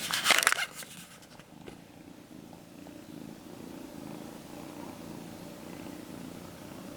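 Domestic cat purring steadily, close to the microphone, after a brief rustle in the first second.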